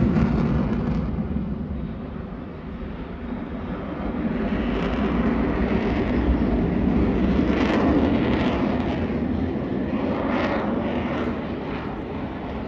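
Airplane engine noise from an aircraft flying by. It is loud at first, dips about two seconds in, then swells again and slowly eases off.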